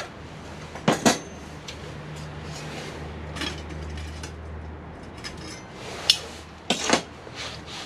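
Old metal camping cookware (pots, a frying pan and a folding spoon and fork) clinking and knocking as the pieces are handled, with a pair of sharp clanks about a second in and more near the end, over a low steady hum.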